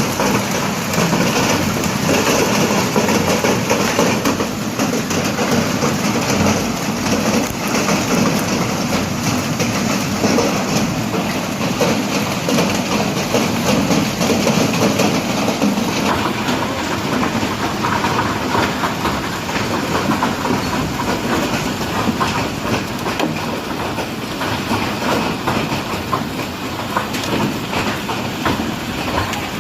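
Hail falling: a dense, steady clatter of countless small impacts.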